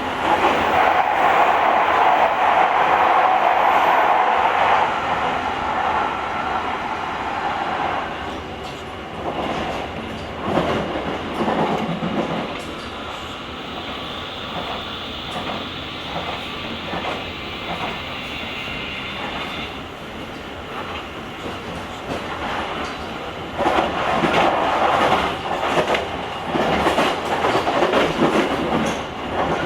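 Running noise of a JR Kyushu 883-series limited express electric train, heard from the vestibule deck of a motor car while the train is under way. The rumble is loudest for the first several seconds and then eases. Wheels clack over rail joints in short clusters, most of them near the end.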